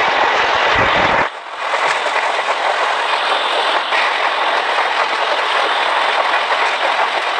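Train running along the track: a loud, steady rushing rail noise, with a brief sudden drop about a second in before the noise carries on evenly.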